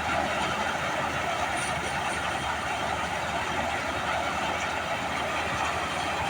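Swaraj 855 FE tractor's diesel engine running steadily at a constant speed.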